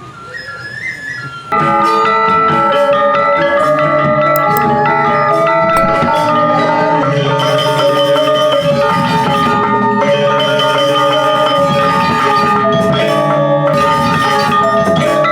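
Balinese gamelan ensemble of bronze metallophones and gongs. After a soft melodic opening, the full ensemble comes in loudly all at once about a second and a half in, with many ringing metallic notes sounding together.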